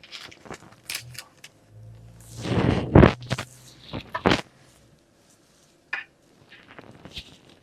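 Bird feeder kit parts being handled and fitted together: scattered clicks and knocks, with a louder scraping rustle about two seconds in that ends in a sharp knock, and another knock about a second later.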